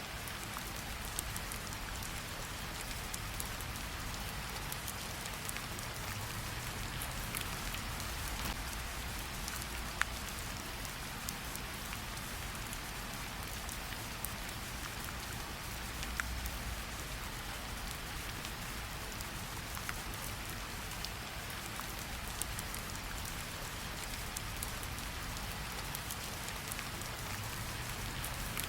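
Steady rain falling on leaves, damp ground and standing water, an even hiss with scattered sharper drop ticks, a few louder single drops standing out.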